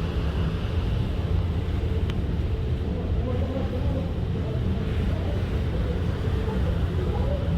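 Steady low drone of a cruise ship's engines, with faint indistinct voices in the background.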